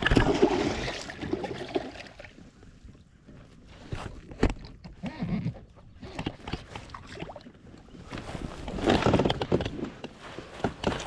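Irregular knocks and water splashing while a hooked bass is fought beside a plastic fishing kayak, loudest at the start and again about nine seconds in.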